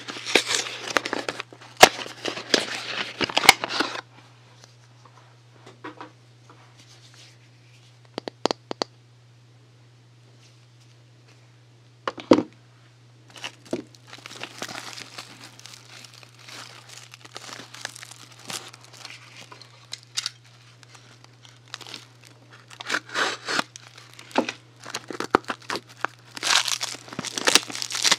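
Soap packaging being unwrapped by hand: wrappers crinkling and tearing in bursts, with a quieter stretch in the middle broken by a few sharp taps, and busier crinkling near the end. A steady low hum runs underneath.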